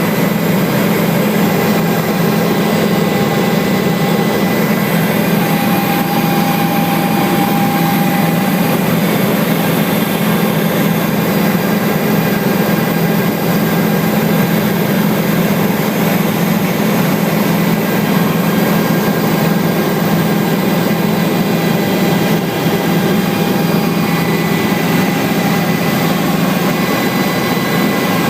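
Helicopter engine and rotor noise heard from inside the cabin: a loud, steady drone with a strong low hum and thin steady whining tones above it, unchanging throughout.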